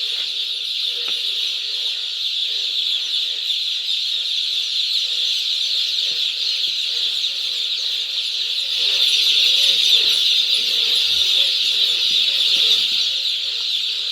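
A large flock of chicks in a poultry shed cheeping all at once, a dense, continuous high-pitched chorus that swells a little about two-thirds of the way through.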